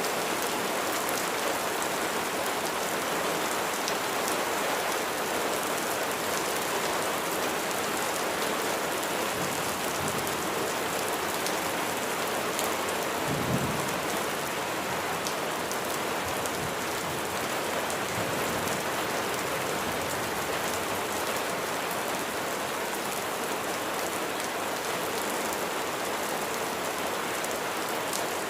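Steady heavy rain falling on surfaces, a dense even patter throughout. About halfway through comes a short low rumble of thunder.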